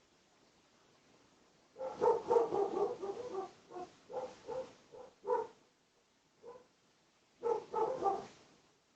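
A dog barking, silent at first, then a fast volley of barks about two seconds in, a few single barks spaced out, and another quick burst near the end.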